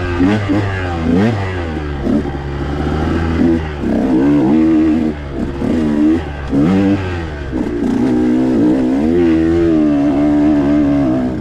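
2021 KTM 125 XC's two-stroke single-cylinder engine revving hard on a dirt-bike trail ride, its pitch climbing and dropping again and again as the throttle is opened and closed.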